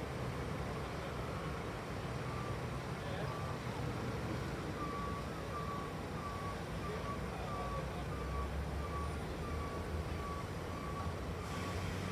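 Road train's diesel engine running low and steady as it reverses, with its reversing alarm beeping a little over twice a second from a few seconds in. A short hiss near the end.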